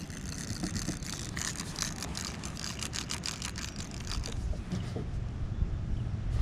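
Wind buffeting the microphone with a steady low rumble, and a quick run of small irregular clicks about a second in that fades out past the middle.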